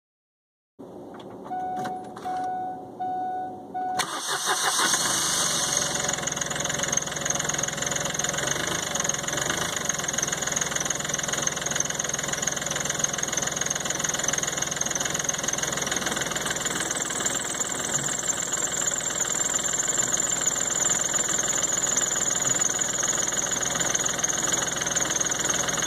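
2006 Smart Fortwo CDI's three-cylinder turbodiesel starting from cold at about −19 °C. After a few seconds of short beeping tones it fires suddenly about four seconds in, then runs steadily at a cold idle.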